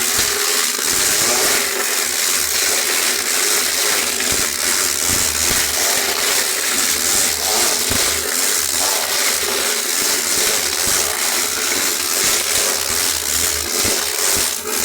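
Loud, steady grinding noise with scattered clicks and rattles, like a motor-driven machine working through material.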